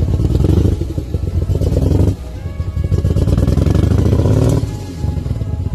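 Twin-turbo Nissan 300ZX (Z31) engine idling with a rapid, even pulse, running cleanly on a newly installed Walbro 255 fuel pump and not yet tuned. The sound drops in level briefly about two seconds in and again near the end.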